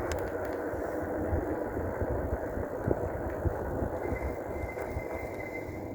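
Steady rumbling ride noise from a 5,000-watt dual-motor electric bike on the move. A faint, steady high whine joins about four seconds in.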